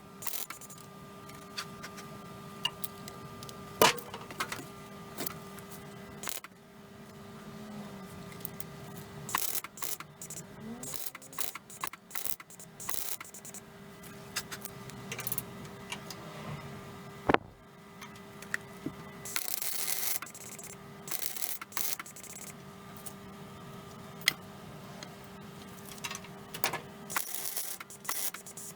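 MIG welder laying short plug and stitch welds on car body steel: brief bursts of crackling hiss, separated by sharp clicks, over a steady low hum.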